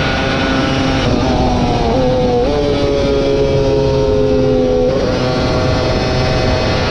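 Superbike engine running hard at high revs, with a dense rushing noise over it. About a second in the note thins out. Its pitch jumps up twice around two seconds in, then slowly falls, and the full, harsher sound returns about five seconds in.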